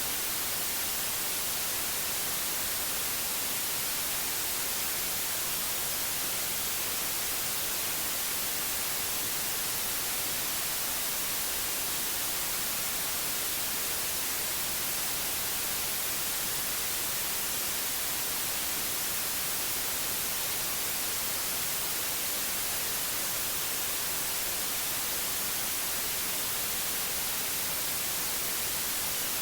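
Steady white noise: an even, unchanging hiss, brightest in the treble, with no other sound.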